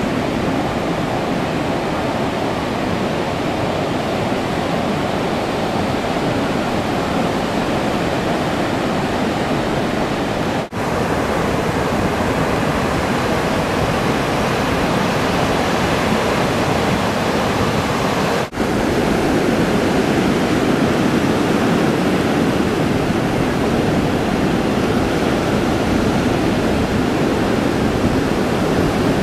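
Heavy ocean surf from a distant hurricane's swell breaking on the beach: a continuous loud rushing wash. It cuts out for an instant twice and is a little louder after the second break.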